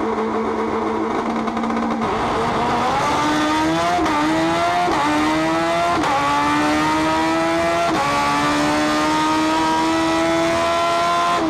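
A race car engine holds a steady note for about two seconds, then climbs in pitch in stages, dipping briefly at several points as it accelerates.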